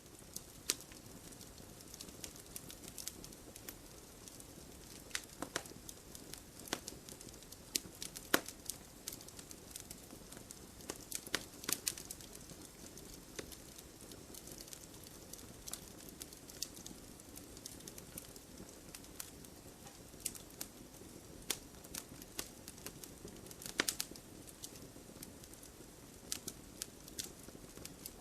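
Campfire crackling: a steady low hiss of burning wood with irregular sharp pops and snaps throughout, a few louder pops standing out.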